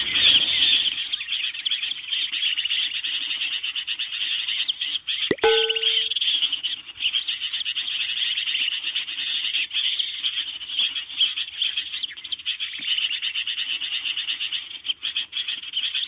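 Bird-call lure recording playing on a loop from a small TF-card speaker: a dense, steady, high chattering of calls. A click and a short lower note come about five seconds in.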